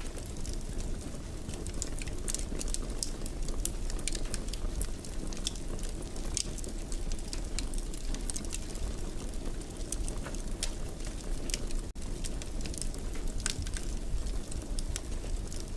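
Wood fire in a fireplace crackling, with frequent sharp pops over a steady low rumble of burning. The sound drops out for an instant about twelve seconds in.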